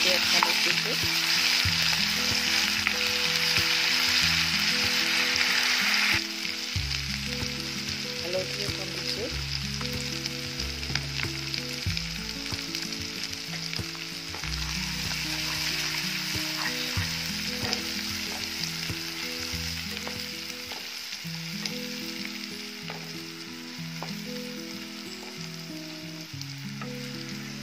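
Onions and a ginger-garlic-green-chilli paste sizzling in hot oil in a wok, with a wooden spatula stirring and scraping. The sizzle is loud at first and drops about six seconds in, then carries on more quietly. Soft background music plays underneath.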